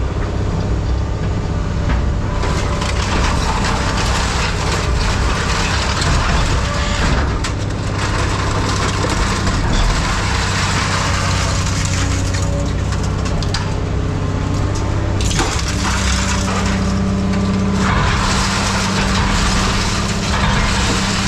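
Diesel engine of a tracked scrap-yard handling machine running steadily while its grapple grabs and crunches scrap metal, with long stretches of grinding and cracking.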